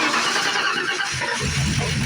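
A 1995 Ford Mustang GT's V8 is being cranked by the starter in an attempt to start it, making a loud, harsh mechanical racket. A heavier low rumble builds about halfway through. The owner says it sounded terrible and suspects a cam bearing or something loose, such as the flywheel.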